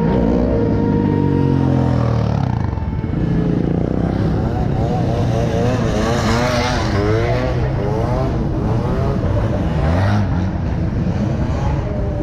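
Car engines running and revving, their pitch falling in the first two seconds and then rising and falling repeatedly, over a steady low rumble, with voices mixed in.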